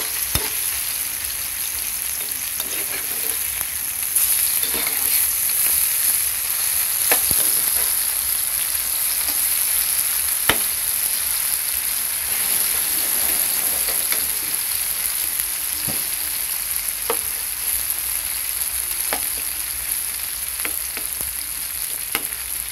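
Thinly sliced tofu and straw mushrooms sizzling steadily as they pan-fry in oil, while a metal spatula scrapes through them and now and then clicks against the pan as the pieces are turned.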